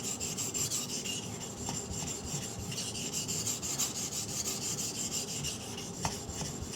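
Hard 3V steel knife blade scraping steadily as it is stroked on a 400-grit water stone, reprofiling the edge into a convex bevel.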